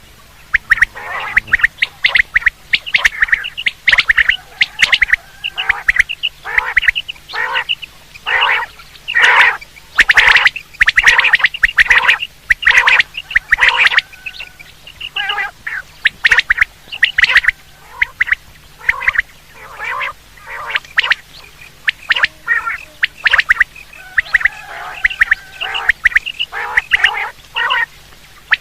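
Quail calling over and over in runs of short, sharp notes, several a second, with brief lulls between runs: a batair call recording of the kind played to lure quail for hunting.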